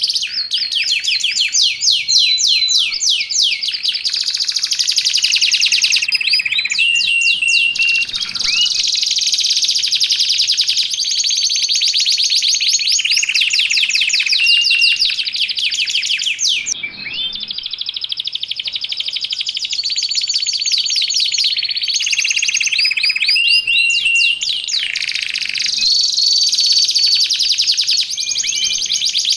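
Domestic canary singing a continuous, loud song of rapid trills and rolls, switching to a new phrase every few seconds, with a brief break about 17 seconds in.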